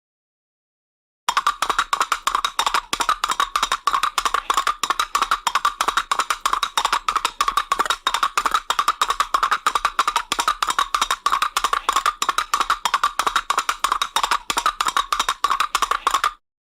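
Horse hoofbeats: a fast, even run of hollow knocks that starts about a second in and stops abruptly near the end.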